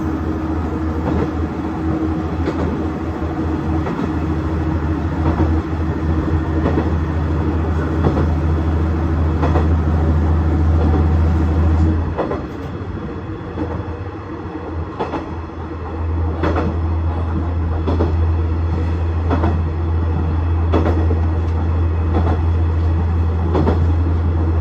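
KiHa 110 series diesel railcar running, its engine drone steady, falling away about halfway through and coming back a few seconds later. The wheels click over rail joints throughout.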